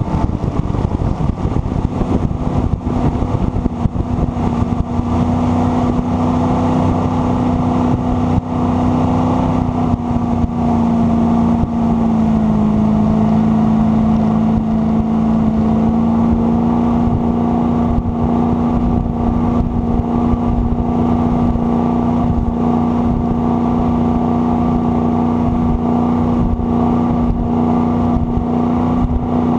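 Jet boat engine running steadily at speed over a constant rushing noise, its pitch dipping slightly about ten to twelve seconds in, then holding steady.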